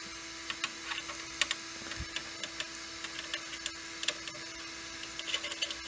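Light, irregular plastic clicks and taps from handling the 3D-printed sunglasses frame with its lens just pressed in, over a faint steady hum.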